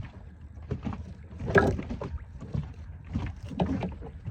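Irregular knocks, clicks and rustles of fish and tackle being handled in a small inflatable boat, over a steady low rumble; the loudest knock comes about one and a half seconds in.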